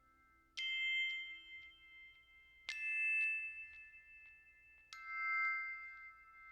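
Background music of slow chime or glockenspiel-like notes: three ringing strikes about two seconds apart, each left to ring on into the next.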